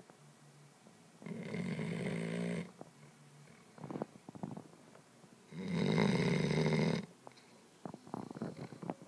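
A sleeping puppy snoring loudly: two long snores about four seconds apart, the second the louder. Short faint clicks come in the gaps between them.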